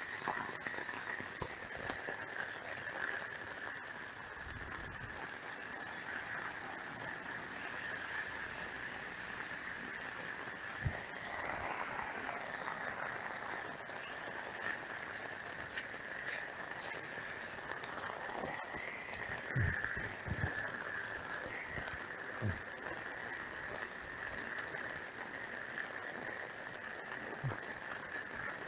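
Steady heavy rain falling, with a constant high-pitched drone running under it and a few soft knocks now and then.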